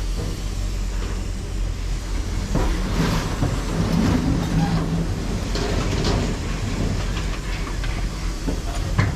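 A vehicle engine running steadily at a low hum, with several metal knocks and rattles over it and a sharp knock near the end.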